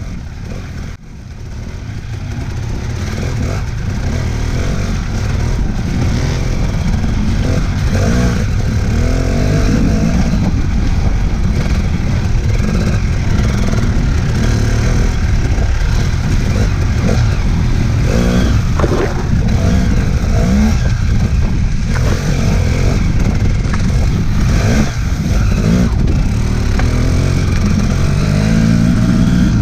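Dirt bike engine heard close up from on board, revs rising and falling again and again as the throttle is worked along a rough track. It builds in loudness over the first few seconds.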